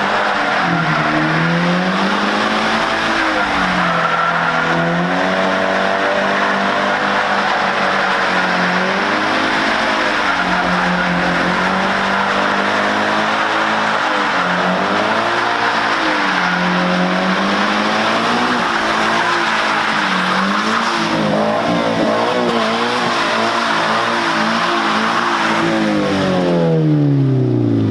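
A car engine revving up and down again and again, held at high revs while the tires spin and squeal, as in donuts or drifting. Near the end the revs drop away in one long fall.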